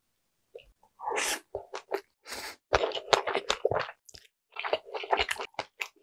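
Close-miked eating: a bite into a dumpling, then wet chewing with sharp mouth clicks, starting about a second in.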